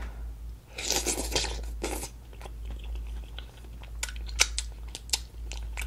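Close-miked chewing of a sauce-dipped broccoli floret: a wet crunching for about a second, then scattered sharp mouth clicks and smacks near the end.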